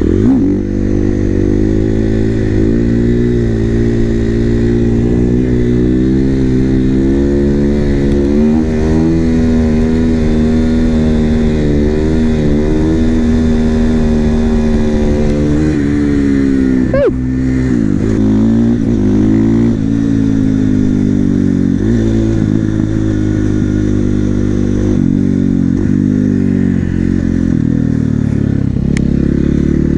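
450 cc single-cylinder supermoto engine running under way, its pitch rising and falling with the throttle. About seventeen seconds in it revs sharply and drops back, followed by several shorter throttle dips.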